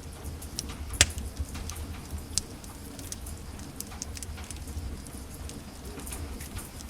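Wood fire crackling in a fireplace: scattered sharp pops and ticks over a steady low rumble, with the loudest pop about a second in and another a little before the halfway point.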